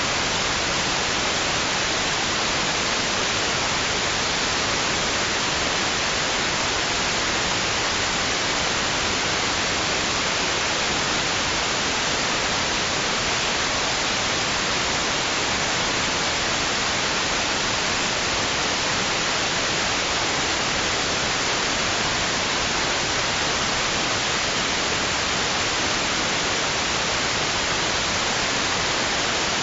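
Steady white noise: an even, unchanging hiss, brighter in the upper range, with no swells or breaks.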